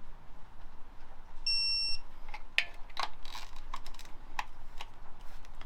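Hand tools clicking and knocking on metal, a string of sharp separate clicks, while a clutch is bolted onto an engine's flywheel. A single short electronic beep sounds about a second and a half in.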